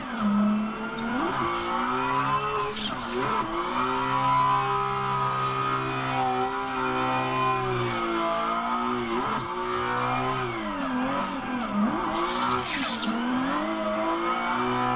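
The 2003 Nissan 350Z's 3.5-litre V6 revs up and down repeatedly, holding high revs for stretches of a second or more, while the tires squeal. These are repeated throttle blips and pulls typical of drift driving.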